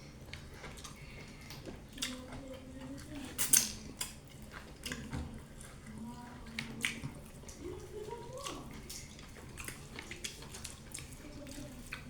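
Close-miked eating of fufu and soup: scattered wet clicks, smacks and drips of mouth and soup, with one sharper click about three and a half seconds in.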